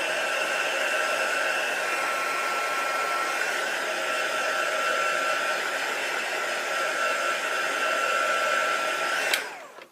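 Handheld electric hot-air dryer blowing steadily with a thin high whine, drying acrylic paint that is still tacky; it is switched off near the end.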